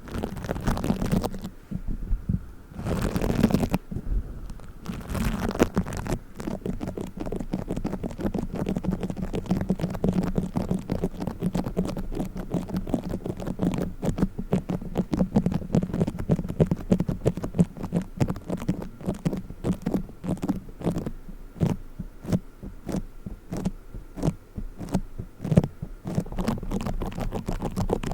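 Play foam being squeezed and kneaded close to the microphone: a dense, continuous run of small crackles and squishes, with a few short rustling swells in the first few seconds.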